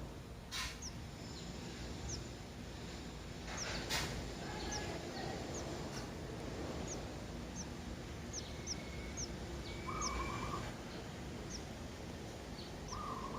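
Birds chirping at a nest, the newly hatched chicks: a steady run of thin, very high, short chirps, one or two a second, with a few lower warbling notes. There are two brief clicks near the start.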